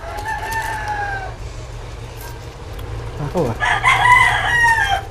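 Rooster crowing: a shorter call at the start, then a longer, louder crow near the end.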